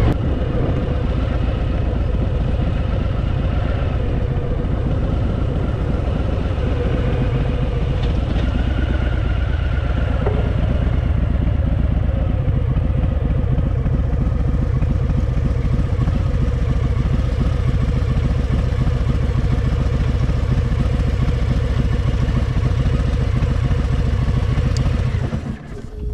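Harley-Davidson Fat Boy's V-twin engine running steadily under way, heard from the bike itself; the sound drops off shortly before the end.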